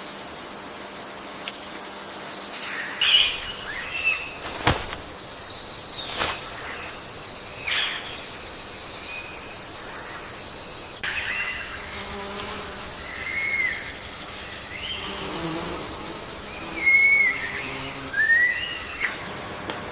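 Forest ambience: a steady, high-pitched insect drone with scattered short bird chirps and slurred whistles, and two sharp clicks about five and six seconds in. The insect drone stops just before the end.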